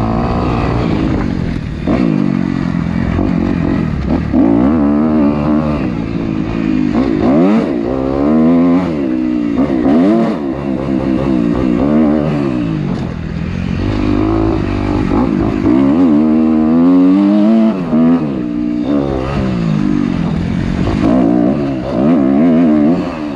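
250 dirt bike engine being ridden hard, revving up and dropping back over and over as the throttle opens and closes, with the pitch rising and falling many times.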